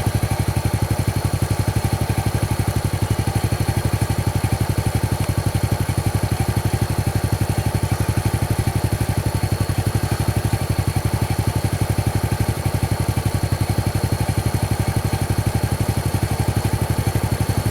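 Vehicle engine idling steadily, an even low pulsing that does not change.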